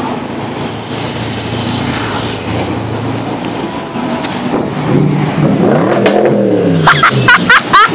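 BMW M6 convertible's engine running loud as the car drives past. About halfway through it revs up, rising then falling in pitch over a couple of seconds.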